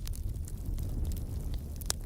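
Wood fire burning in a fireplace: a steady low rumble of the flames with scattered crackles, and one sharp, louder pop near the end.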